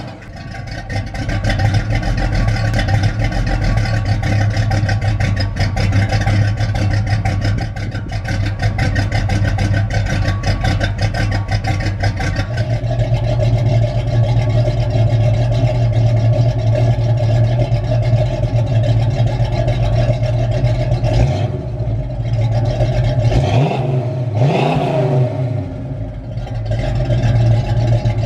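A 1969 Ford Mustang's engine idling steadily through its exhaust. It is briefly revved up and allowed to settle back about three-quarters of the way through.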